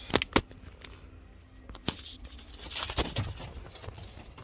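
Scuffling and a few sharp knocks in a pigeon loft as a pigeon is being caught by hand.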